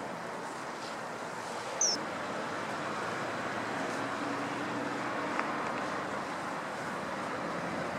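Steady rushing background noise, with one short, shrill, falling call from a bird about two seconds in.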